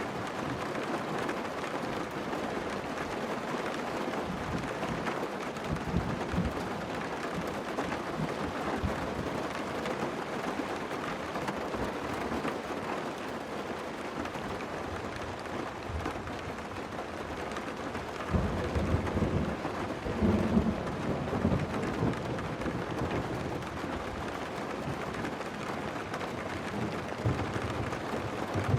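Steady rain falling, with low rolls of thunder: a short one about six seconds in and a longer, louder one from about two-thirds of the way through.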